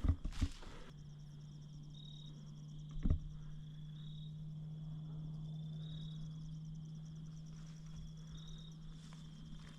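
Night insects calling in the woods, crickets or katydids: a fast, continuous high trill with a short higher chirp about every two seconds. Footsteps stop within the first second, with one more step about three seconds in, and a low steady hum runs underneath after the steps stop.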